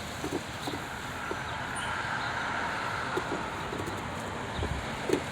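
Steady outdoor background noise with a few faint knocks and clicks as the air filter housing of a 2004 Dodge Durango is opened.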